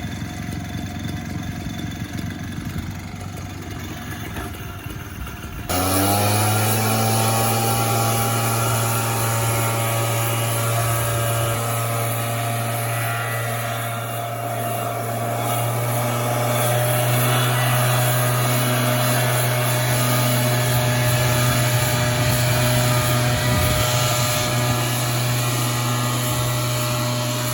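A small engine running rough. About six seconds in, a motor starts up, rises briefly in pitch and settles into a loud, steady hum that holds to the end.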